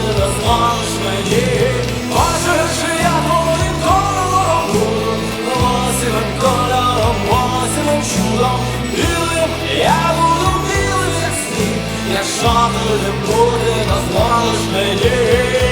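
Rock band playing live, with a bending melodic lead line over a steady drum-and-bass beat.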